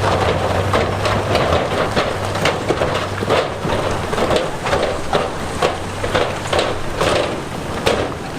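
Large rocks clattering and tumbling against each other in a rapid, irregular run of knocks, over the steady low running of a heavy diesel engine.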